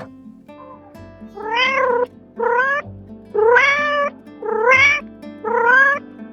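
A cat meowing five times in a row, each call about half a second long and rising then falling in pitch, over soft background music.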